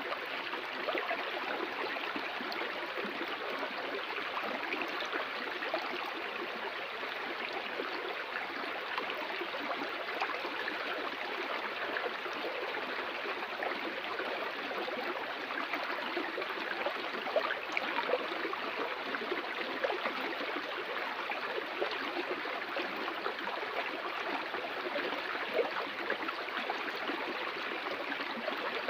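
Stream water flowing and splashing steadily over rocks, an even rushing with small gurgles.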